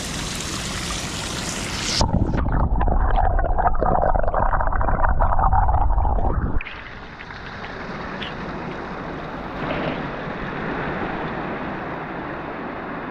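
Rushing water of a mountain stream, a steady wash of noise. From about two seconds in to past the middle, a louder low rumble covers it, typical of wind buffeting the microphone, then it drops back to the steady rush of the water.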